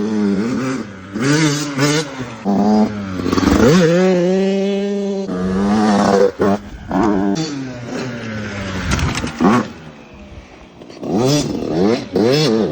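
Yamaha YZ85 single-cylinder two-stroke dirt bike engine revving hard and dropping off again and again as it is ridden, with one long held high-rev pull around the middle. It goes quieter shortly before the end, then revs up again.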